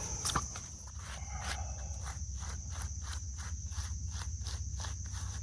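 A scrub brush working over a gravestone in rapid, evenly spaced strokes, starting about two seconds in, over a steady high chirring of insects.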